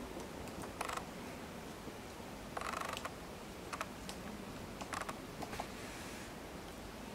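Eurasian three-toed woodpecker pecking and tapping at bark while foraging: irregular sharp taps with a few short scraping bursts, not a drumming roll.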